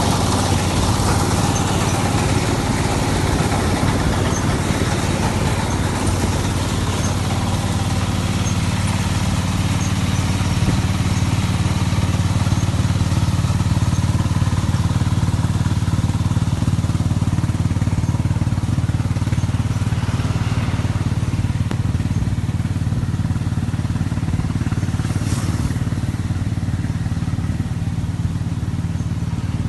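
Combine harvester engine and machinery running steadily with a constant low drone.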